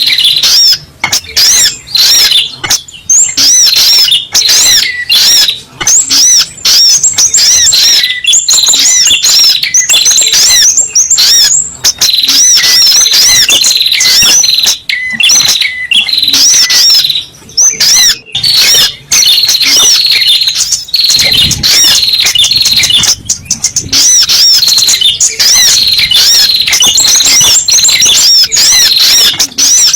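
Spiderhunter (sogok ontong) lure call: a loud, nearly unbroken stream of rapid, high chirping notes, repeated over and over with only brief gaps.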